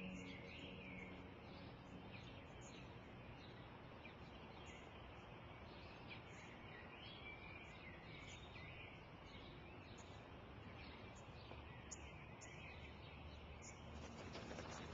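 Faint birdsong, many short chirps scattered throughout, over a steady low outdoor hiss.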